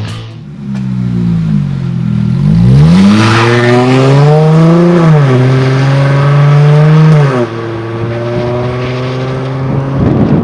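V6 engine through a stainless mandrel-bent dual exhaust kit, revving. The pitch climbs sharply about two and a half seconds in and keeps rising, then drops, holds, and falls again at about seven and a half seconds to a lower steady running note.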